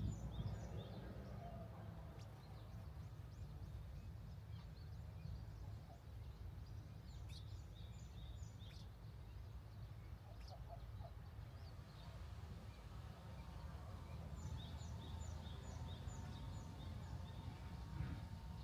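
Small birds calling in quick runs of high, repeated chirps, three times: at the start, about seven seconds in, and again near the end. The calls sit over a faint, steady low rumble of outdoor background noise.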